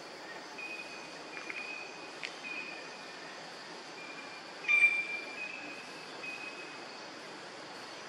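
A bird calling: several short, clear whistled notes held at one high pitch, with one louder, harsher call just before five seconds in. A steady high hiss of insects runs underneath.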